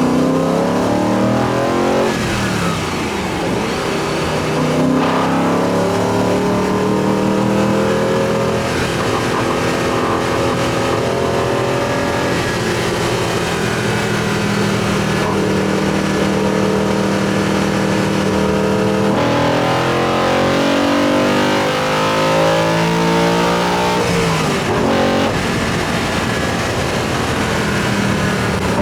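BMW E90 M3's S65 V8 with an Eventuri carbon intake plenum, its induction sound rising and falling with the revs. It climbs, drops at gear changes or lifts, and holds steady for a long stretch in the middle.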